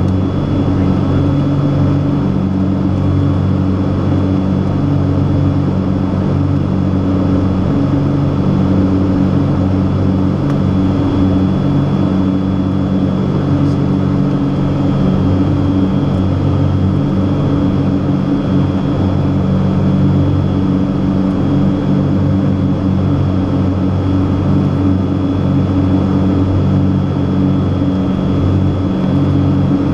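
Cessna 421C's twin geared, turbocharged Continental piston engines and propellers droning steadily, heard from inside the cabin in flight, with a faint steady high tone over the drone.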